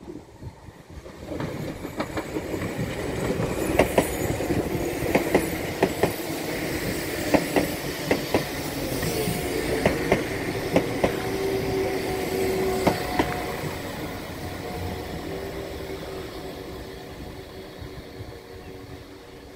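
Class 172 diesel multiple unit running past slowly on a curve: its wheels click over rail joints, often in quick pairs as each bogie crosses, over the rumble of the train. About halfway through, a steady wheel squeal sets in and holds as the train rounds the bend.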